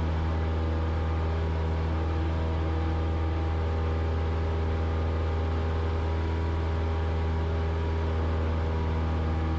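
Cessna 172's piston engine and propeller giving a steady, even drone at climb power.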